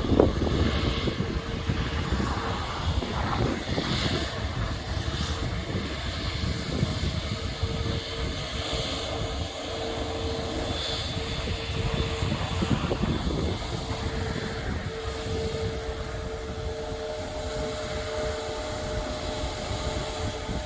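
Airbus A350-1000's Rolls-Royce Trent XWB engines running as the airliner rolls on the runway: a steady jet rumble with a faint held whine, easing slightly in level over time.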